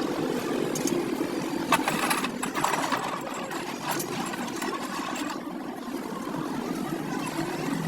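An engine running steadily, with a few sharp metallic clicks over it.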